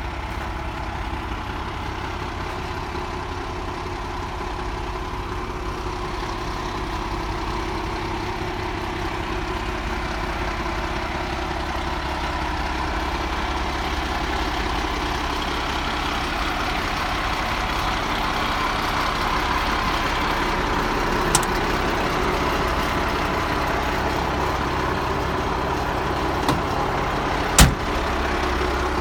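1995 International 4900 truck's diesel engine idling steadily, with a few sharp clicks near the end.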